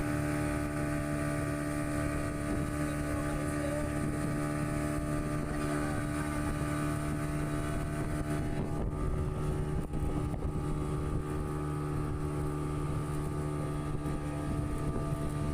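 Motorboat engine running steadily at a constant pitch, as when towing a banana boat.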